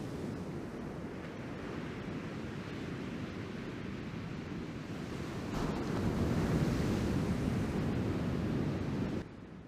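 Ocean surf from a typhoon swell washing and breaking, with wind on the microphone. It swells louder a little past halfway, then drops off suddenly near the end.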